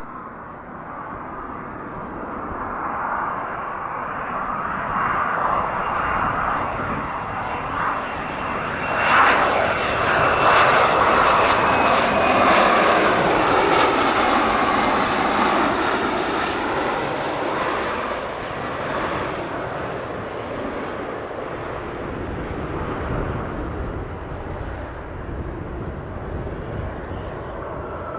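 Embraer ERJ-135 regional jet passing on landing, the sound of its twin turbofans building to a peak about halfway through and then fading away, with a faint high whine that drops slightly in pitch as it goes by.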